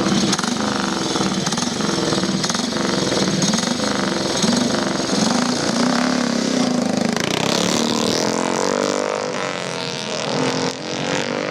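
Motorcycle engines running and revving, the note climbing from about seven seconds in as a bike accelerates.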